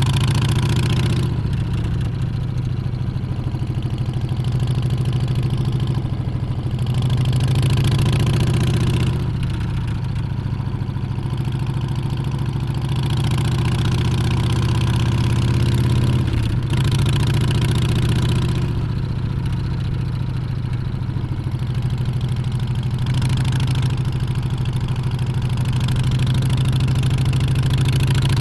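Harley-Davidson Street Bob's Milwaukee-Eight 114 V-twin running on the move. The engine note rises and eases gently with the throttle, over a hiss of wind that swells and fades every few seconds.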